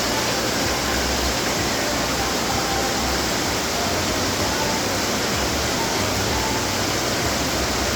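Garden water fountains running: a steady splash of falling water.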